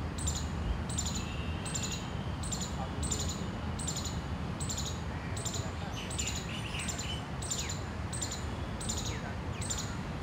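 Bird calls: a short, high chirp repeated very regularly, about one and a half times a second, with a few other lower calls near the middle, over a steady low rumble.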